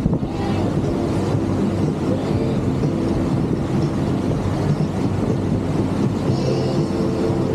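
A boat motor running steadily under a rush of wind and water, with no break or change.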